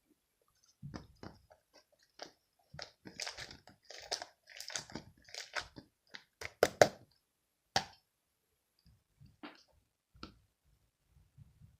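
Irregular, close-up crunching and clicking, densest and loudest in the middle, then thinning to a few scattered clicks near the end.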